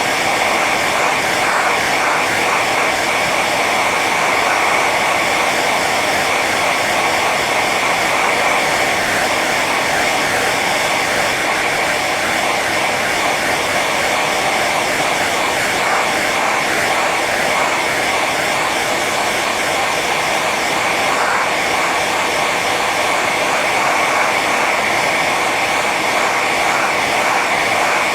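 Hair dryer running steadily on its high setting: an even rush of blown air with a constant whine from the fan motor.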